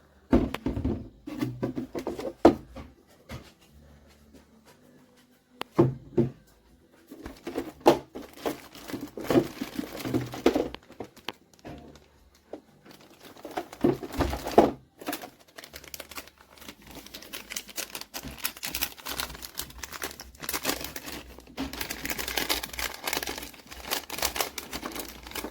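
Crinkling and clicking handling sounds in uneven spells, with a few sharp knocks. A denser crackle sets in about two-thirds of the way through.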